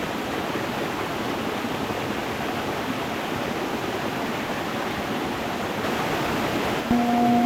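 Stream water running over stones in a steady rush. Near the end a singing bowl is struck and starts ringing with a low, steady tone and a higher overtone.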